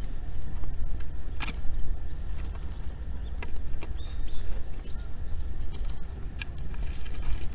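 Wood fire crackling, with sharp pops every second or so over a steady low rumble. A bird gives a short chirp about four seconds in.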